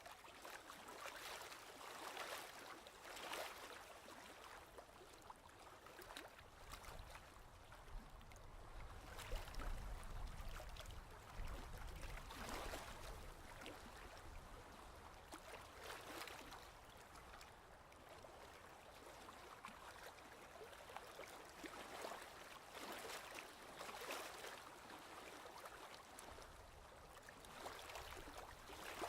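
Faint ocean waves washing in and lapping, one wash every second or few, with a low rumble building around ten seconds in and again near the end.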